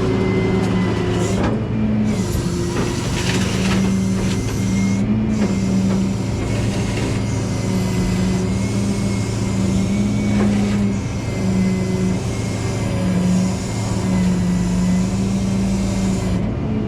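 Tow truck engine running steadily, with a faint high steady whine above it.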